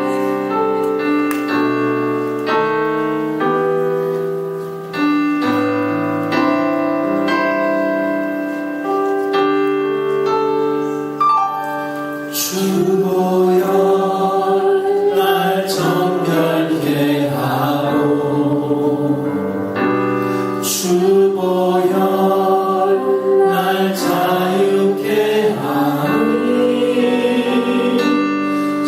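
Worship music: a keyboard plays an introduction in held chords, and about twelve seconds in a congregation begins singing a worship song with it.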